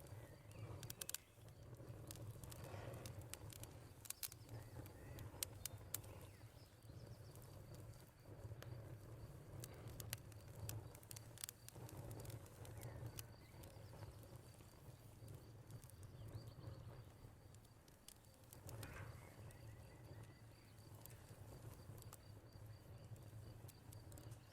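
Wood fire crackling with irregular sharp pops over a low, steady rumble, with a faint steady high cricket chirr behind it.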